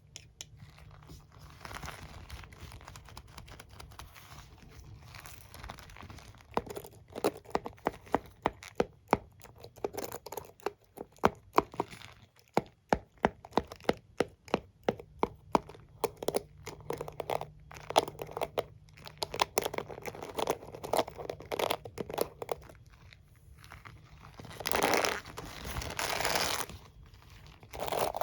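Comb and hairbrush handled close to the microphone: a long run of sharp taps and clicks, then a few seconds of scratchy bristle brushing near the end.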